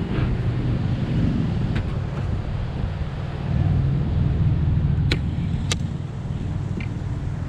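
Low, steady rumble of wind buffeting the microphone. Two sharp clicks come a little over half a second apart, about five seconds in.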